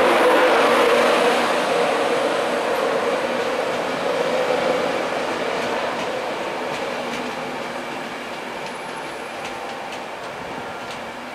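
LNER intercity passenger train running past on the rails and pulling away, its wheel and rail noise steadily fading.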